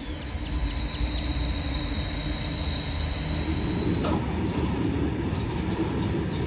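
Freight train of open hopper wagons rolling along the line: a steady rumble of wheels on rail with a thin, high steady squeal in the first part, the rumble growing heavier about three and a half seconds in.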